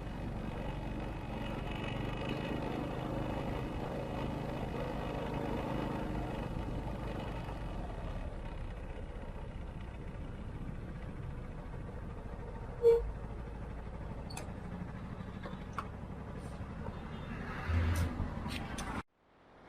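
Steady hum of city traffic. A single sharp knock stands out about two-thirds of the way through, with a brief low thump near the end, and then the sound cuts off suddenly.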